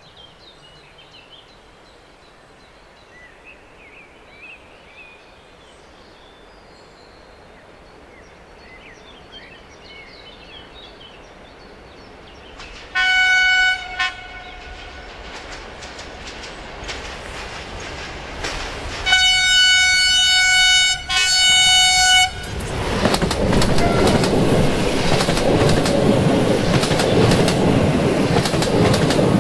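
Faint birdsong over the growing rumble of an approaching train. The train's horn sounds one short blast, then some seconds later a longer blast broken by a brief gap. The passenger train then passes close by with loud rumbling and the clickety-clack of wheels on the rail joints.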